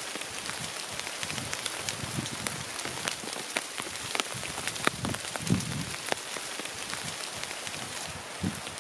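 Light rain falling in woodland: a steady hiss of drops with many individual drops ticking sharply here and there.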